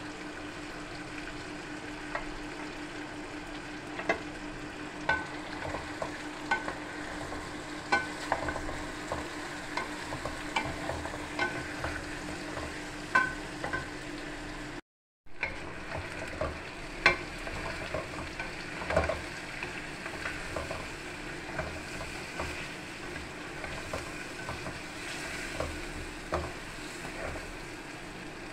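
Chicken pieces sizzling in hot oil in a metal karahi, with a spatula repeatedly knocking and scraping against the pan as it is stirred. The sound cuts out briefly about halfway through.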